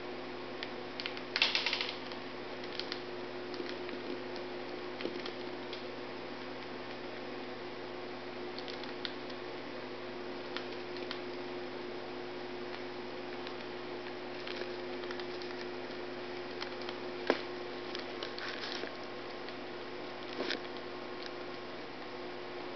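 Cockatiel cracking and nibbling pieces of cereal held in its foot: scattered small crunches and beak clicks over a steady low hum. The loudest crunching comes about a second and a half in, and a single sharp click about two-thirds of the way through.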